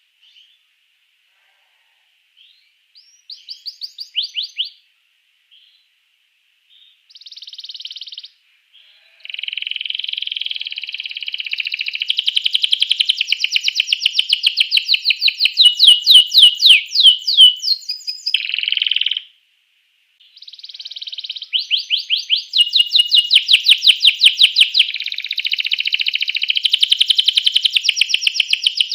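Domestic canary singing in full song. A few short phrases come in the first several seconds, then long runs of fast, rapidly repeated sweeping notes and trills, with a pause of about a second about two-thirds of the way through.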